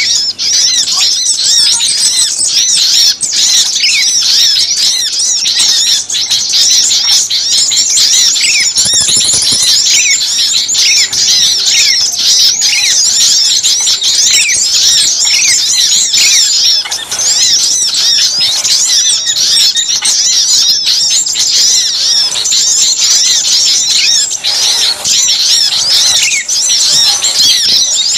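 Dense chorus of many small songbirds chirping and twittering at once, rapid high-pitched calls overlapping without a pause: a rowdy bird-lure recording of agitated small birds.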